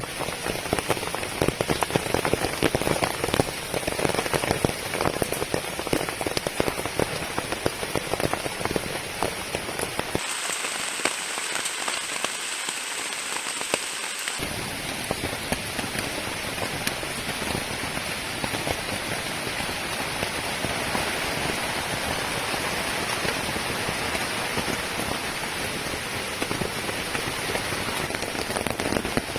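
Heavy rain falling steadily, with a dense patter of individual drops striking a surface. About ten seconds in, the sound thins for roughly four seconds to a lighter hiss without the low drumming, then the heavy downpour carries on.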